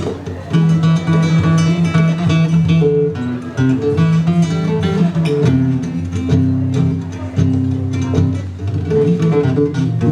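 Instrumental music led by plucked and strummed acoustic guitar, with a steady bass line.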